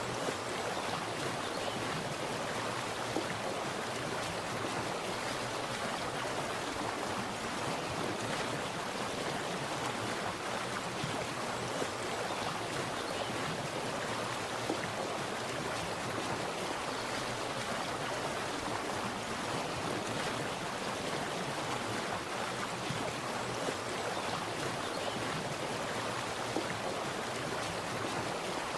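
Water splashing and rushing steadily, like a small stream or cascade.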